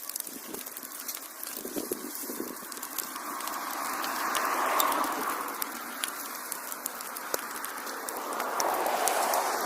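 Wood fire burning in a fireplace, crackling with frequent sharp pops over a steady hiss. A soft rushing sound swells twice, about halfway through and again near the end.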